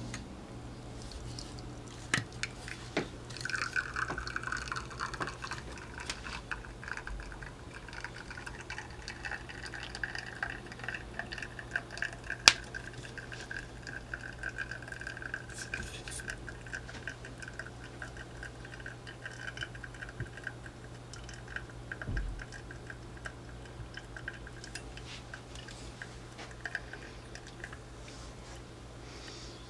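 Espresso running from a Flair Neo manual lever espresso maker into a cup as a steady trickle for about twenty seconds. A few sharp clicks come near the start, and the loudest is about twelve seconds in. A faint steady hum lies underneath.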